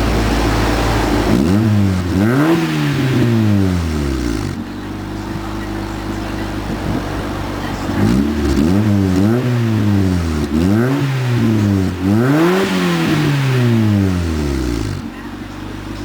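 Honda del Sol's four-cylinder engine idling, then blipped by the throttle through its exhaust. There are two revs about a second and a half in, then a run of about four more from about halfway, each climbing in pitch and falling back to a steady idle.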